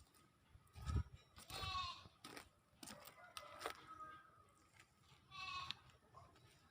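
A goat bleating twice, each call a short quavering cry, with a few sharp knocks in between.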